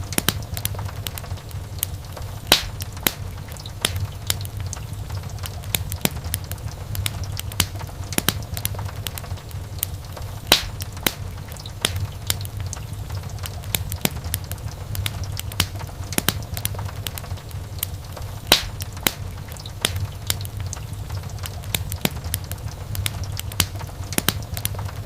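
Wood fire burning in a fireplace, crackling with dense irregular snaps and several louder sharp pops over a low steady rumble of the flames.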